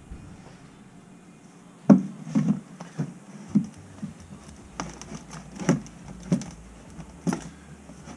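Irregular knocks and clunks, about a dozen, starting about two seconds in: handling of the furnace cabinet and its air filter during a filter change.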